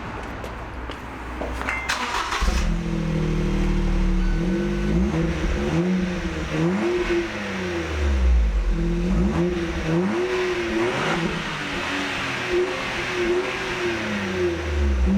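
Suzuki Alto Turbo RS's 660 cc turbocharged three-cylinder running through an aftermarket HKS Legamax Sports muffler. It is quieter at first, then about two and a half seconds in the revs start rising and falling again and again.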